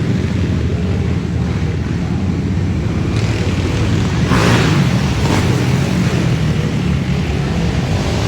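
Several racing ATV (quad) engines running and revving together on the track, with a brief louder rush a little past halfway.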